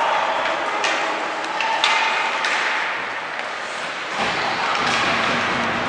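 Game sounds in a large hall: a handful of sharp knocks and clacks, spaced irregularly, over a steady background hiss of the venue.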